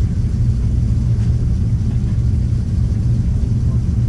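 Steady low rumble with a strong, constant hum, the continuous noise of running machinery.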